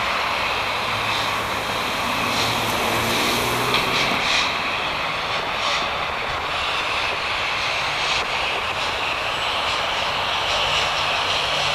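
Jet airliner engines running, a steady rushing noise with a faint low hum.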